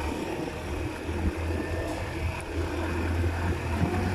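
Motorcycle engine running at low revs while riding slowly, a steady low drone.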